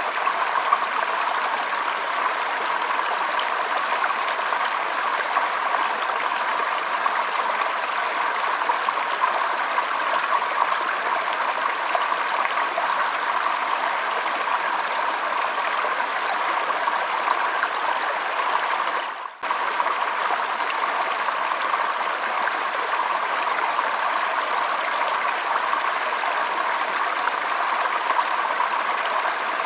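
Shallow stream trickling and flowing over a stony bed: a steady rush of water. About two-thirds of the way through it dips out for a split second and comes straight back.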